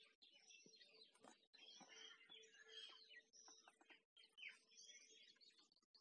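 Faint chorus of many small birds chirping and twittering, with a faint steady hum underneath.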